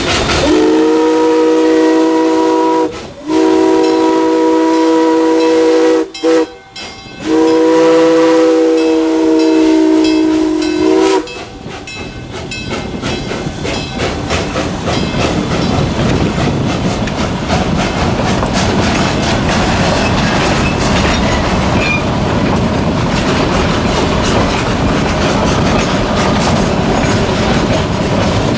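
Steam locomotive's chime whistle, several notes sounding at once, blowing two long blasts, a short one and another long one. About eleven seconds in it stops, and the running noise of the train on the track grows and then holds steady as it rolls away.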